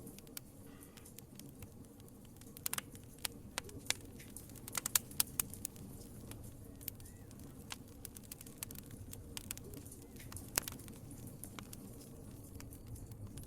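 Fire crackling in a fireplace: irregular sharp pops and snaps over a low steady rumble. The pops come thickest in the middle, with one loud single pop near the end.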